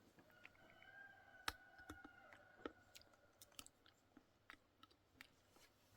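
Very faint, scattered small clicks and smacks of someone chewing and tasting fruit compote, with a faint thin tone during the first two seconds or so.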